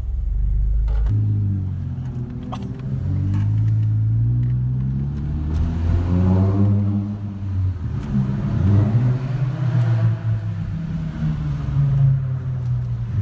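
Car engines running and revving inside a parking garage, heard from inside a car's cabin; the pitch holds fairly steady at first, then rises and falls several times in the second half.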